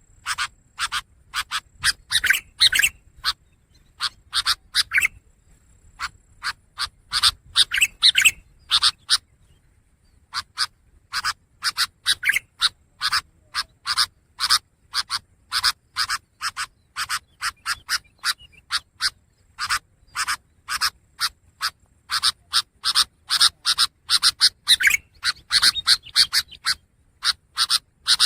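Long-tailed shrike (pentet) singing a fast run of short, harsh chattering notes, broken by brief pauses about four seconds in and about ten seconds in.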